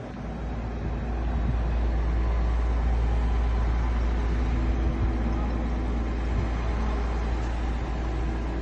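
Heavy vehicle engine running steadily with a deep low rumble, growing louder over the first second or so and then holding level.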